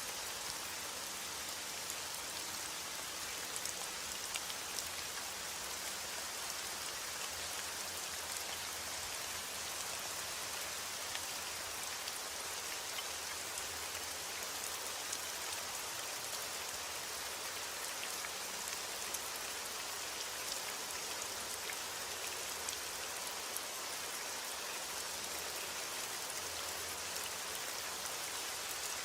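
Steady heavy rain falling, a dense even hiss of countless drops striking a surface, with small individual drop ticks through it.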